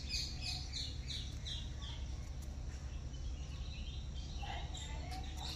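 A small bird calling in the background, a quick series of short high chirps that each slide downward, about three to four a second, dying away about two seconds in. Under it runs a steady low outdoor rumble.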